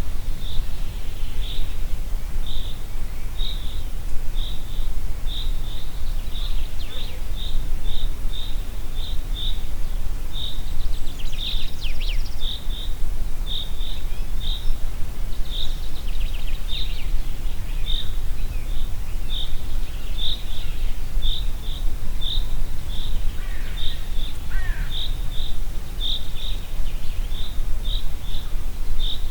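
Steady low wind noise with birds chirping. A short high chirp repeats every half second or so throughout, and other bird calls with quick falling notes come in a little before halfway and again near the end.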